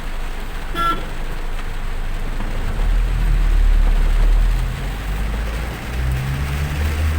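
Road vehicle driving in rain: a steady low engine and road rumble with tyre hiss that swells in the middle, and a short horn toot about a second in.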